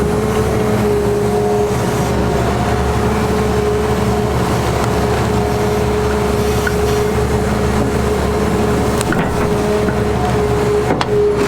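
Caterpillar 336E excavator's diesel engine running steadily, with a constant whine over the engine rumble.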